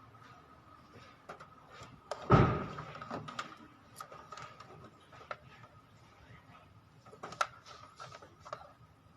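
Scattered clicks and knocks of objects being handled, with one heavy thump about two seconds in, over a faint steady high-pitched tone.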